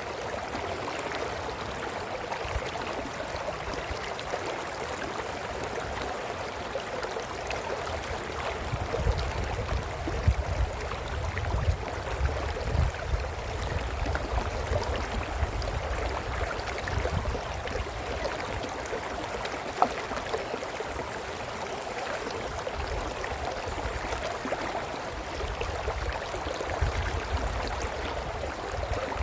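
Brook babbling and trickling steadily, with bouts of low rumble in the middle and again near the end.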